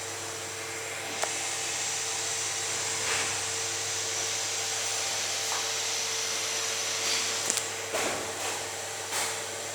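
Steady whirring, hissing machine noise with a faint low hum, like a small appliance motor running, with a few faint ticks in the last couple of seconds.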